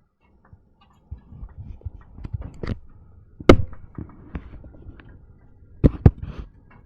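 Irregular clicks and knocks from hands working a 1960s reel-to-reel tape recorder as a spool is fitted. The loudest is a sharp click in the middle, with two sharp knocks close together near the end.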